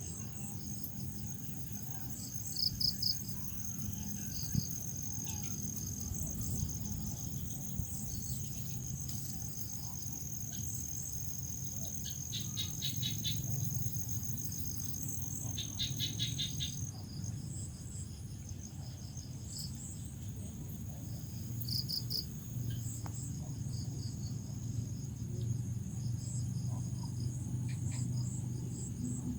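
Crickets chirping in the evening: one cricket's continuous high trill stops about halfway through, while others keep up rapid pulsed chirps. A steady low rumble sits underneath.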